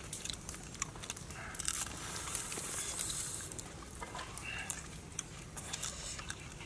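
People chewing and smacking their lips as they eat roast pork, with many small wet mouth clicks.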